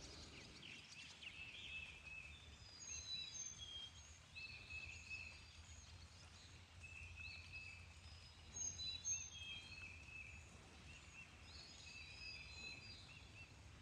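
Several birds singing faintly: a scatter of short, high chirps and whistled notes repeating throughout, over a low background rumble.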